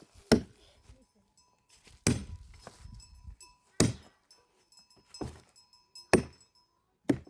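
Firewood being chopped with an axe: six sharp strikes on wood, about one and a half seconds apart.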